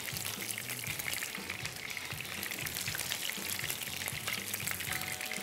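Prawns shallow-frying in hot oil: a steady sizzle full of fine crackles.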